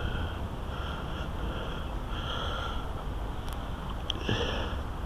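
A person breathing through the nose close to a head-worn camera-glasses microphone, in short irregular breaths, over a steady low rumble of wind or handling noise.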